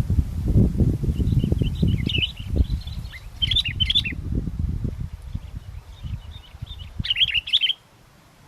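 Sooty-headed bulbul giving short bursts of quick chirping calls, three times. Strong wind buffets the microphone with a heavy gusting rumble that cuts out near the end.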